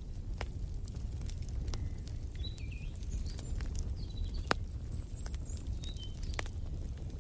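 Wood fire crackling, with irregular sharp pops over a steady low rumble, the loudest pop about four and a half seconds in. Birds chirp briefly and faintly a few times in the background.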